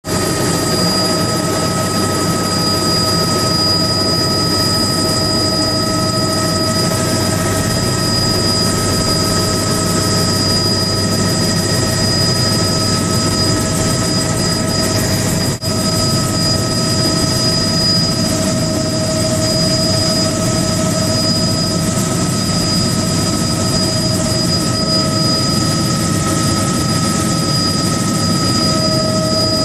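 Helicopter running steadily in flight, a constant engine and rotor noise with a high whine over it. The noise drops out for a moment about halfway through.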